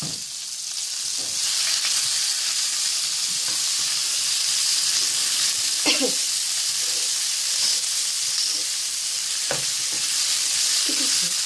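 Sliced onions sizzling in hot oil in a nonstick frying pan, stirred with a spatula, with two sharp clicks of the spatula against the pan about six and nine and a half seconds in.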